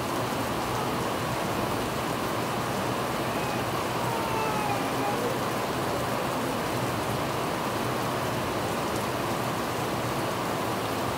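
Steady downpour of rain falling on trees and waterlogged ground, an even hiss at a constant level.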